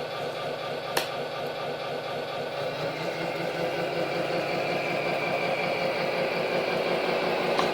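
Tamiya 1/14 Scania RC truck's Servonaut sound module playing a truck diesel engine sound through its speaker, running steadily and getting a little louder after about three seconds. A sharp click comes about a second in.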